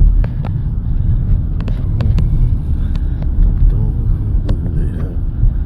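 Car on the move heard from inside the cabin: a steady low rumble of road and engine noise, with a few sharp clicks and taps.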